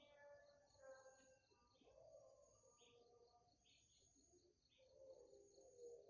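Faint bird calls, short high chirps and whistled notes, mostly in the first half, over a high insect trill pulsing steadily.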